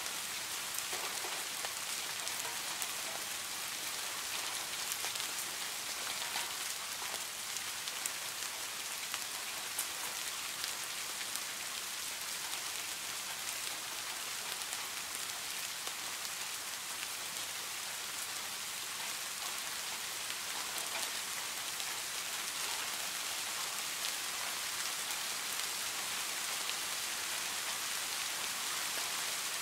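Steady rain falling on a garden fish pond: a dense, even patter of drops on the water surface, with many small individual drop splashes.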